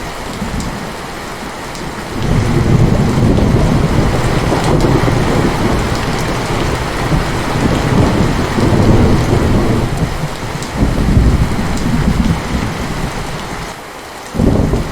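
Heavy rain falling steadily in a thunderstorm, with a long rolling rumble of thunder that swells about two seconds in, surges and fades a little, drops away briefly near the end and comes back.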